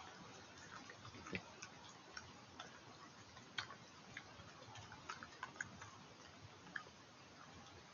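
A badger eating: faint, irregular clicks and crackles, a few a second, over the steady hiss of a stream.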